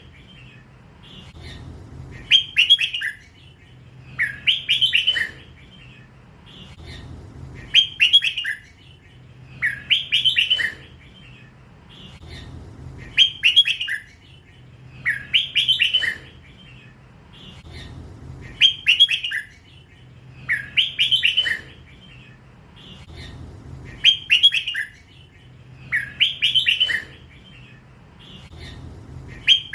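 Red-whiskered bulbul singing in the drawn-out 'lak wai' song style, repeating the same short, bright phrase about every two and a half seconds.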